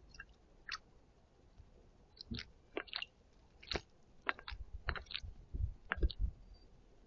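A small bird bathing in a shallow terracotta bowl of water: about a dozen short, irregular flicks and splashes, with a few soft low thumps of wings near the end.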